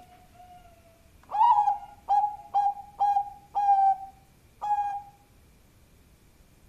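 Bangkok-strain zebra dove (perkutut) singing: faint soft coos, then a run of six loud, ringing coo notes in an even rhythm over about four seconds.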